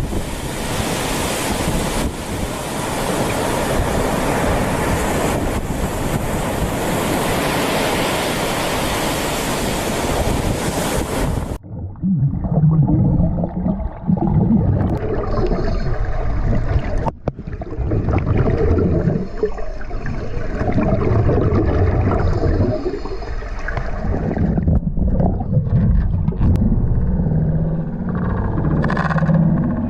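Loud steady rushing noise of wind and water, which cuts off abruptly about twelve seconds in and gives way to lower, uneven rumbling of surf with wind buffeting the microphone.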